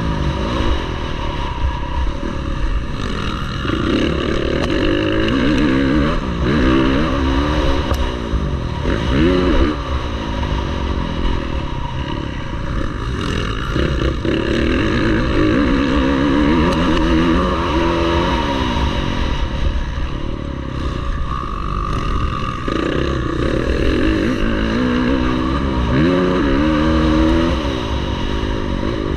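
Motocross bike engines being revved hard, their pitch climbing and dropping again and again as the throttle is opened and shut through gear changes, over a steady low rumble.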